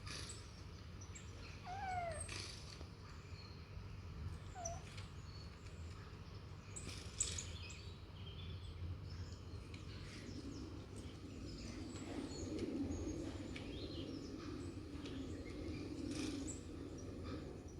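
Scattered short chirps and gliding calls from a bird video playing on a tablet, mixed with kitten sounds, with a low rumbling sound over the second half.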